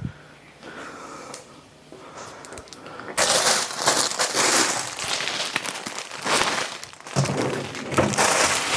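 Plastic grocery packaging crinkling and rustling as food is unpacked and put away in the fridge, starting about three seconds in and loud and irregular from then on.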